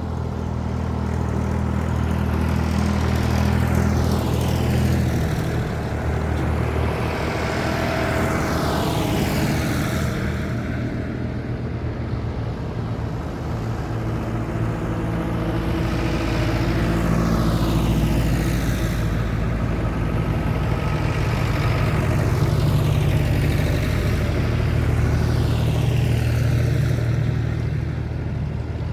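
Vintage tractors driving past one after another, engines running steadily, each swelling and fading as it goes by.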